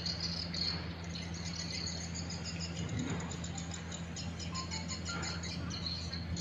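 Swiftlet calls: rapid, high, chattering chirps and trills repeating over a steady low hum.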